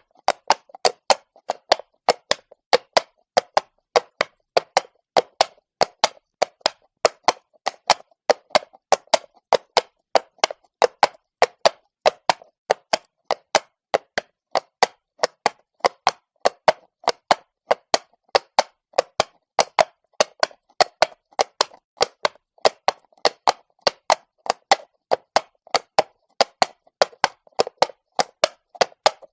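Horse's hooves clopping on stone at a walk: an even, unbroken run of sharp knocks, about three or four a second.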